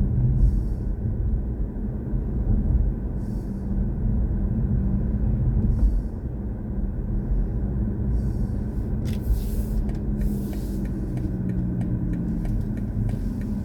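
Low, steady road and tyre rumble of a BMW i4 M50 electric car on the move, with brief hissing now and then and a run of light ticks near the end.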